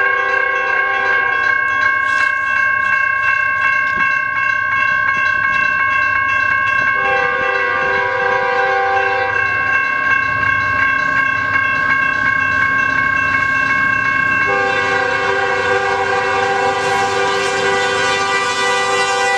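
A GS Type 1 railroad crossing bell ringing with a steady, rapid strike, sounding healthy again after a fault. Over it, an approaching NS freight locomotive's horn blows: the tail of a blast at the start, another long blast about seven seconds in, and a long blast from about fourteen seconds in.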